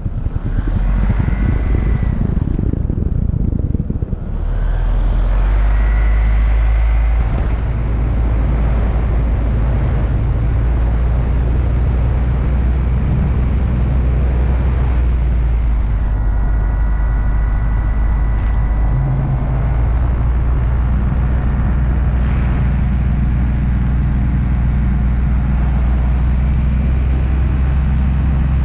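Paramotor engine and propeller running steadily under load, with a brief dip in level about four seconds in and small shifts in pitch later on.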